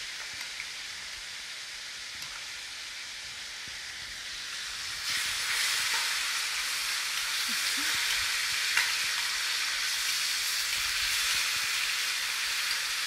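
Chicken strips sizzling in hot oil in a stainless-steel wok as they are sautéed, with a steady hiss that gets louder about five seconds in.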